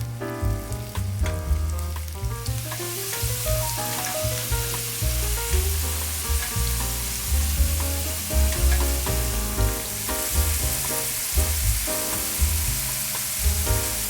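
Food frying in oil in a pan: a steady sizzle that swells about two and a half seconds in, with some stirring. Background music with a bass line plays underneath.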